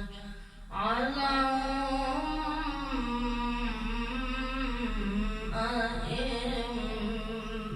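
A man's voice chanting Quran recitation in melodic tajweed style: after a short breath, one long ornamented sung phrase whose pitch glides and wavers, held without clear words.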